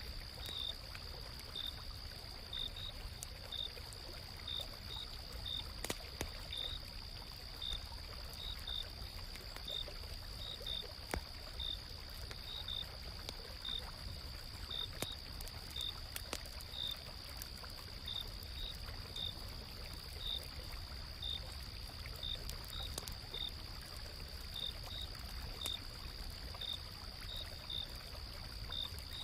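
Autumn night insects singing: one keeps up a continuous high trill while another chirps in short notes about one and a half times a second, over the low steady rush of a flowing stream. A few faint crackles from a campfire come through now and then.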